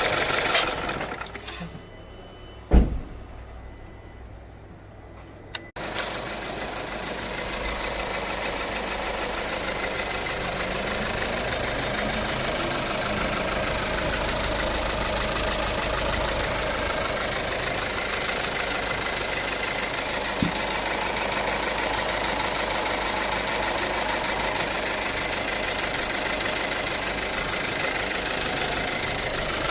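2018 Audi A3's 1.5 TFSI turbocharged four-cylinder petrol engine running with the weird ticking noise. It dies away about a second in, a single thump sounds a second or so later, and about six seconds in the engine starts again and idles steadily.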